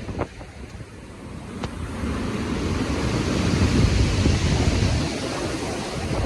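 Stormy ocean surf with wind: a wave surges in and builds from about two seconds in to its loudest around four seconds, a heavy low rushing that then eases slightly.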